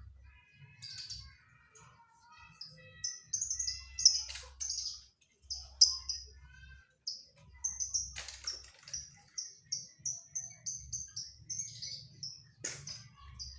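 Pied 'panda' domestic canary singing: chirps and warbled phrases that become a fast run of repeated high notes from about eight seconds in. A few sharp clicks stand out, at about four, eight and thirteen seconds in.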